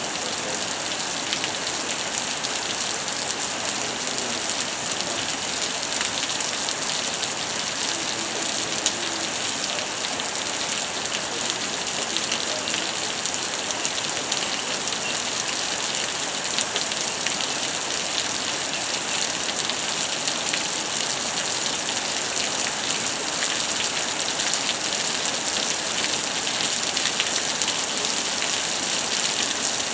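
Heavy rain of a thunderstorm falling steadily: a constant hiss with dense pattering drops. No thunder stands out.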